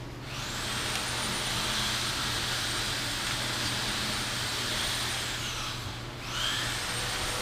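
A high-speed rotary grinder grinding into the metal body of a factory fuel pressure regulator to cut out its diaphragm and internals. It runs with a steady high whine for about five seconds and winds down, then spins up again briefly near the end.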